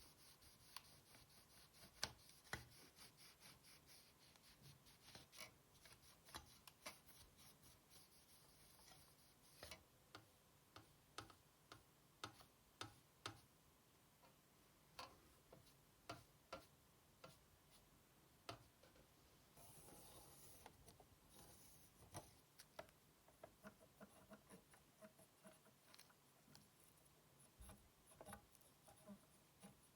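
Faint, scattered clicks and taps of small plastic and metal console parts and hand tools being handled on a workbench. About twenty seconds in there is a brief brushing or hissing sound.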